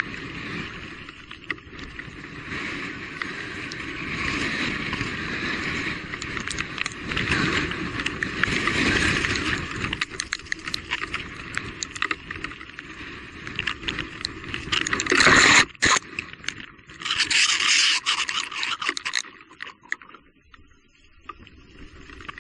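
Electric mountain bike ridden fast over a rough, wet trail: steady tyre and chassis noise with constant rattling clicks. A sharp loud knock comes about two-thirds through, then a brief loud scraping rush, before it quietens near the end.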